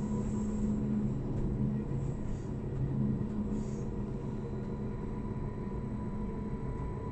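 Electric passenger train running at speed, heard from inside the carriage: a steady rumble of the wheels on the track with a low steady hum over it.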